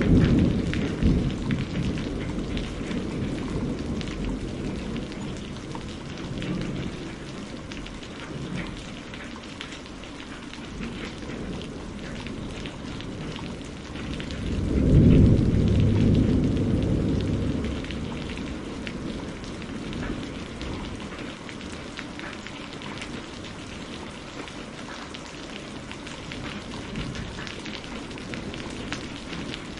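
Steady rain pattering on a surface throughout, with rolling thunder rumbling at the start and again about halfway through, each rumble swelling and dying away over a few seconds.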